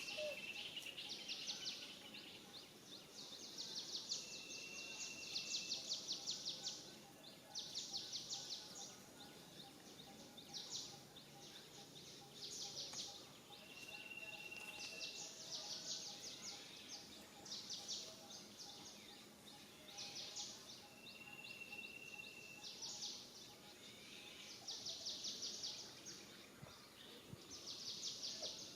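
Outdoor nature ambience of calling animals: rapid, high pulsed trills come in repeated bursts of a second or two, and a short, steady high whistle recurs every several seconds.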